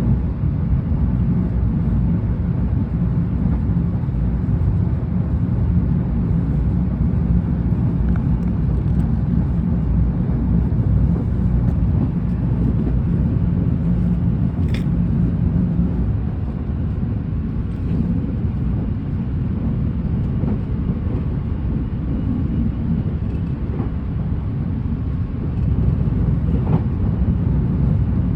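Steady low rumble inside a JR West train car, with a steady hum that stops about halfway through.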